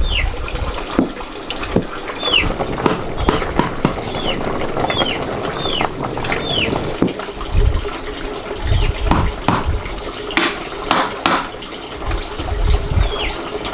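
Water splashing and pouring, with short high chirps that fall in pitch repeating every second or so, and scattered knocks.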